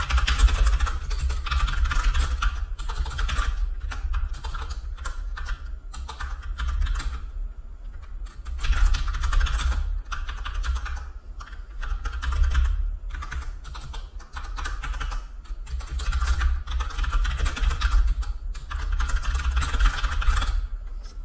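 Computer keyboard typing in quick runs of keystrokes with short pauses between them.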